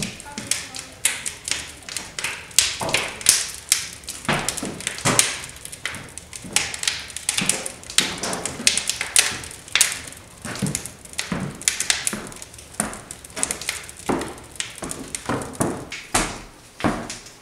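Irregular taps, knocks and thuds, several each second, with rustling between them: someone moving about and handling things on the wooden boards of a cabin.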